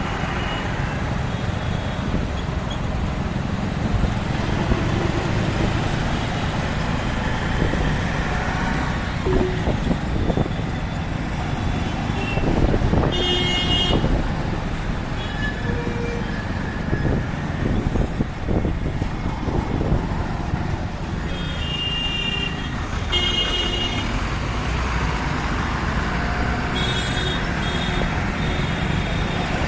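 City traffic heard from a moving motorbike: a steady low road and wind rumble, with other vehicles' horns honking several times, once a little before halfway and twice more in the second half.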